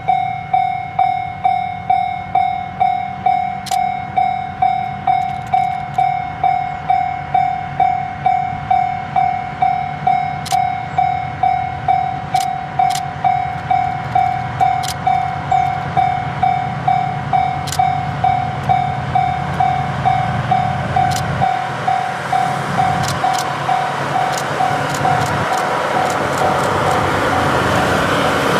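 Railway level-crossing alarm bell ringing over and over, about twice a second, over the low steady hum of a diesel locomotive. Toward the end a rising rumble with clicks comes in as the train gets moving.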